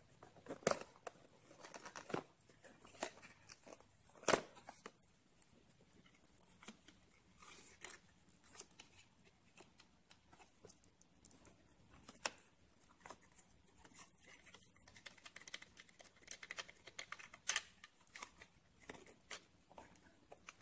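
Cardboard box and its insert being handled as an action camera in its plastic housing is worked out of the packaging: faint, scattered clicks, scrapes and rustles, with one sharper click about four seconds in.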